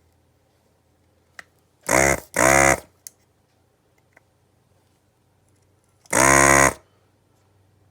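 Desoldering gun's vacuum pump buzzing in short bursts, two close together about two seconds in and a third about six seconds in, as the trigger is pulled to suck molten solder off the relay's pins on the circuit board. A couple of faint clicks between the bursts.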